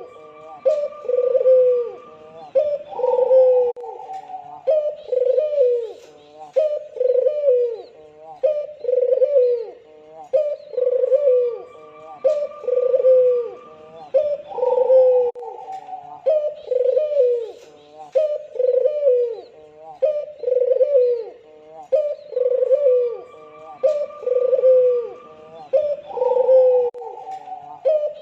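Albino Barbary dove (puter) cooing over and over, about one coo a second, each coo bending down in pitch at its end.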